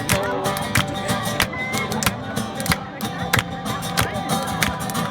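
Acoustic guitar strummed in a steady rhythm, about three strokes a second.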